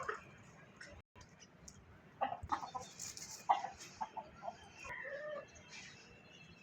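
Chickens clucking: a run of short, sharp clucks starting about two seconds in, with a few more scattered calls after.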